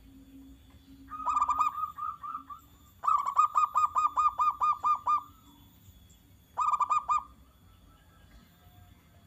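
Zebra dove (perkutut) calling: three bouts of rapid staccato notes. The middle bout is the longest, about a dozen quick notes over two seconds, and the last is a short burst.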